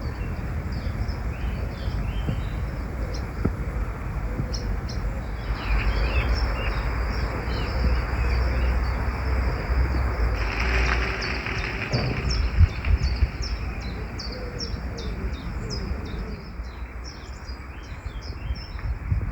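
Small songbirds chirping, in many short high calls that come thicker from about halfway through, over a steady rushing background.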